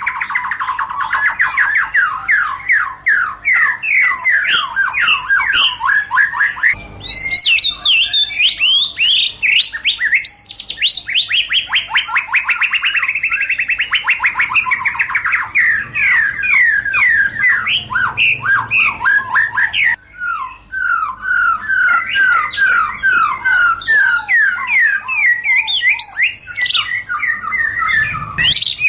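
White-rumped shama (murai batu) singing: a continuous song of rapid runs of short repeated notes, many sliding down in pitch, broken by brief pauses about seven and twenty seconds in.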